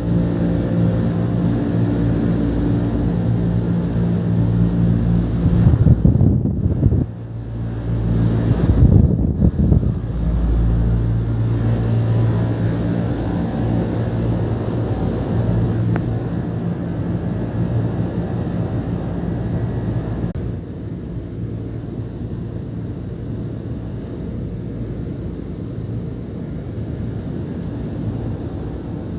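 Daikin air-conditioning unit running with a steady mechanical hum. Two short rumbling buffets come about a third of the way in, and the hum softens slightly about two-thirds through.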